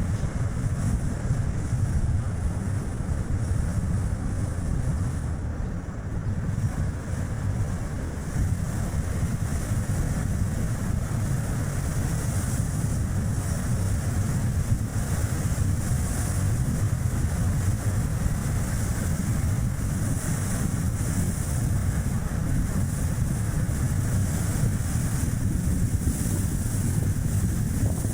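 Strong gusty wind buffeting the action camera's microphone in a steady low rumble, over the tyre and road noise of a small car driving.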